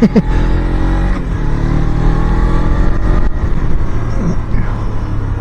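Suzuki Inazuma GW250 motorcycle's 250cc parallel-twin engine accelerating through the gears. The pitch rises, drops about a second in, climbs again until about three seconds in, then holds steadier.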